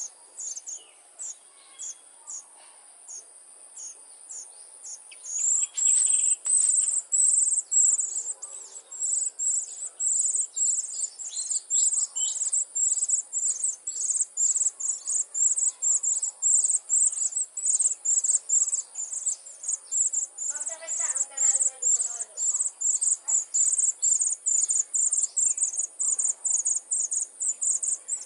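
Baby cuckoo chick begging with a long series of short, very high, thin chirps: faint and spaced at first, then from about five seconds in loud and quick, about three a second.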